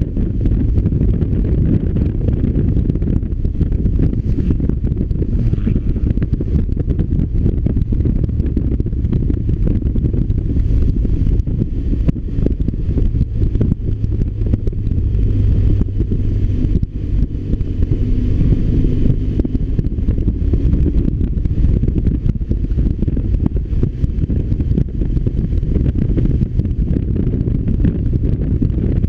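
BMW R1200RT motorcycle's boxer-twin engine running on the move, under heavy low wind rumble on the microphone.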